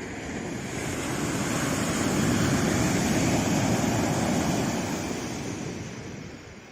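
A single sea wave breaking and washing up the shore: the rushing noise builds, is loudest in the middle, then fades away as the water draws back.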